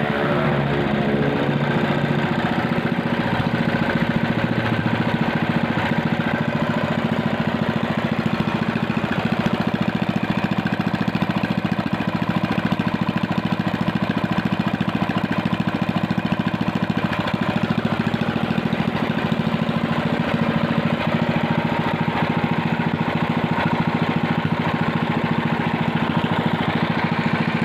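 An engine running steadily at idle, its note shifting slightly in the first few seconds and then holding even.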